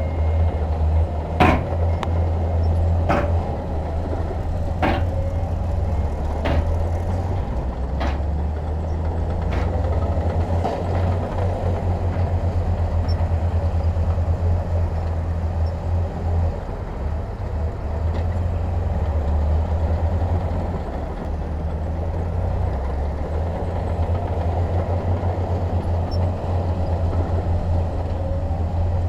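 Heavy diesel earthmoving machinery running steadily with a deep rumble. Over the first ten seconds or so, a series of sharp knocks comes about every second and a half and grows fainter.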